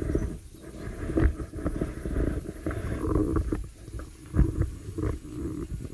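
Model train running on the layout's track: a low rumble with many irregular clicks.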